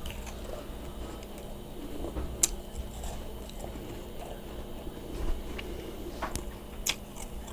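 Steady low background rumble with a handful of short, sharp clicks, the loudest about two and a half seconds in.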